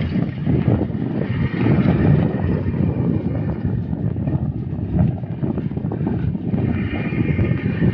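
Wind buffeting the microphone while riding a bicycle: a continuous, unsteady low rumble.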